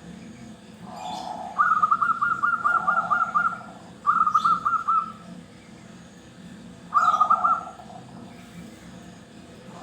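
Zebra dove (perkutut Bangkok) cooing: three bouts of fast, rolling coo notes. The first and longest starts about a second in, a shorter one follows, and a third comes near the end, over a faint low hum and faint high chirps.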